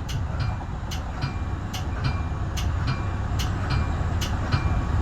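Metra bi-level commuter train running at speed, heard from inside the cab car: a steady low rumble with a regular ticking about twice a second, alternating stronger and weaker strokes, some of them briefly ringing.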